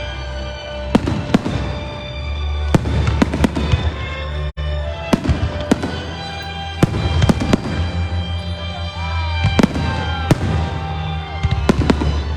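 Fireworks bursting in repeated sharp bangs, several in quick succession at times, over loud music from a pyromusical display.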